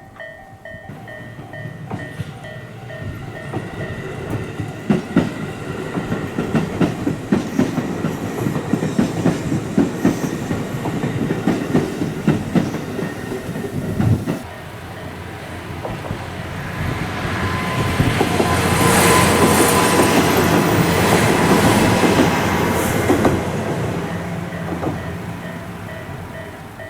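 Level-crossing alarm bell ringing in a steady pulsing pattern while a train passes, its wheels clattering over the rail joints. Partway through, a louder rush of train noise builds, peaks and fades away.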